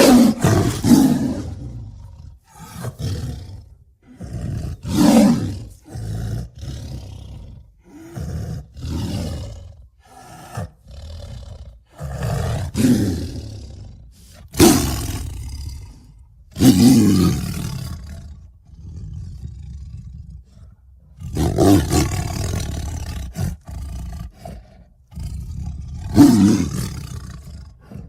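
Bengal tiger roaring and growling over and over: a string of separate loud roars and rumbling growls of varying length, with short gaps and a quieter growling stretch a little past the middle.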